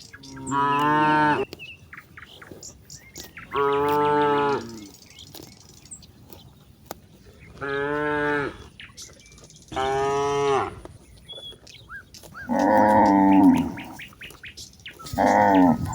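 Cattle mooing: six long, loud moos of about a second each, coming every two to three seconds.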